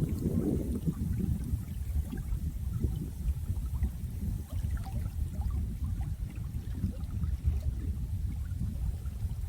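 Running water: a steady low rush with many small scattered splashes and drips.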